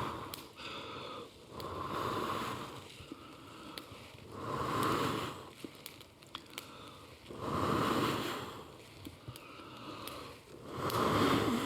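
A person blowing long breaths into smouldering embers under fresh wood, about four blows a few seconds apart, to fan the smoking fire into flame.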